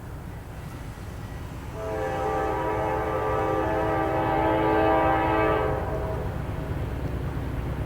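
Freight locomotive air horn, NS 9416's GE D9-40CW, blowing one long chord of about four seconds, starting about two seconds in, over a steady low rumble of the approaching train.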